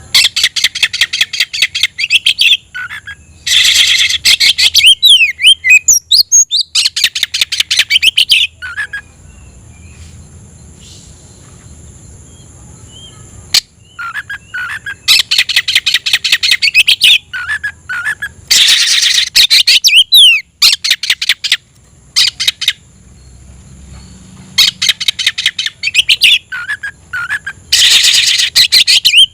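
Oriental magpie-robin (kacer) singing: phrases of rapid repeated chirping notes mixed with quick whistled glides, each a few seconds long, with two longer pauses between them.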